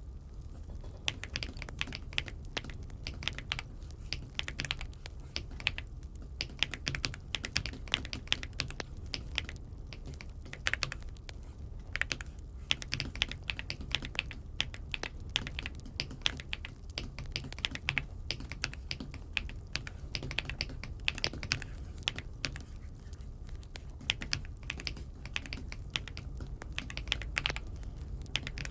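Typing on an Aula F75 mechanical keyboard: a quick, continuous run of key clicks starting about a second in, over a steady low hum.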